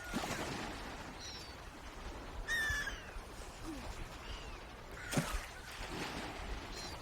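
Birds calling: several faint, short, down-curving chirps, and one clearer, brief pitched call about two and a half seconds in, over a steady outdoor background. A single sharp knock sounds about five seconds in.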